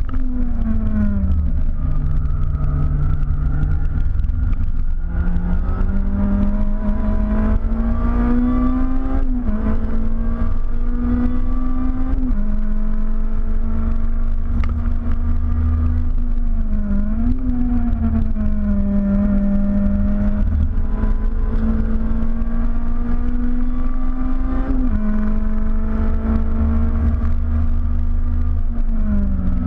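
Honda K20 four-cylinder engine in a tuned Civic track car, heard from inside the cabin on track. The engine note falls over the first couple of seconds, then climbs and holds high, with several sudden drops and brief dips. A heavy low road and wind rumble runs underneath.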